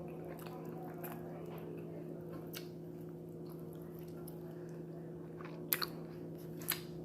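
A person chewing food close to the microphone, with faint wet clicks and then three sharp mouth clicks near the end, two close together and one a second later. A steady low hum sits underneath.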